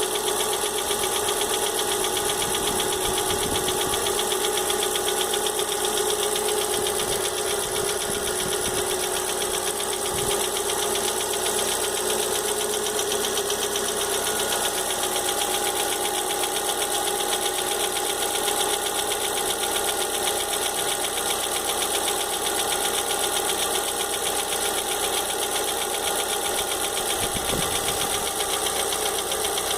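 Volkswagen Fox engine running steadily with a fast, even ticking noise from the engine, a fault the owner cannot identify.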